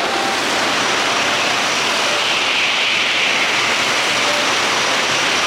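Loud, steady rushing noise of a Shinkansen train running through the station at speed, strongest around the middle.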